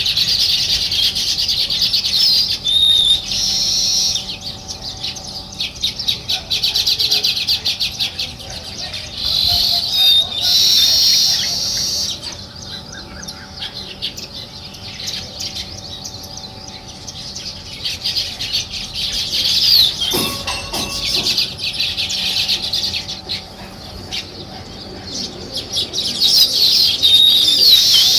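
A flock of sparrows chirping continuously in overlapping, high-pitched chatter. The chatter thins out through the middle and builds again near the end.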